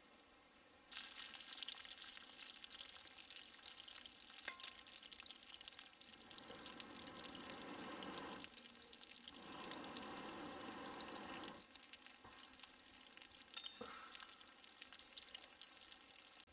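Food sizzling in a hot pan: a dense crackle that starts abruptly about a second in and swells fuller for a few seconds in the middle.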